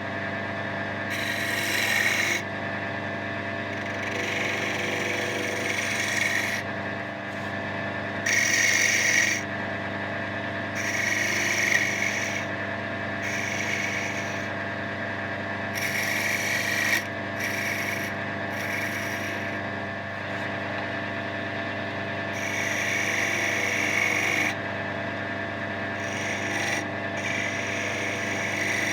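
A wood lathe runs with a steady hum while a tool is worked against the spinning oak finial blank in repeated passes of a second or two each, making a rough scraping noise with short pauses between.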